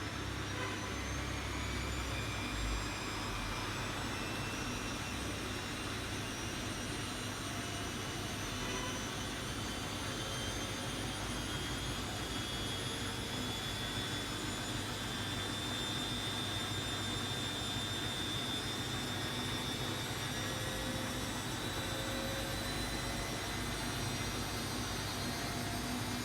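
Bosch Avantixx 7 VarioPerfect washing machine on its spin cycle: a steady whir of the spinning drum, with a high motor whine that climbs slowly over the first dozen seconds and then holds steady.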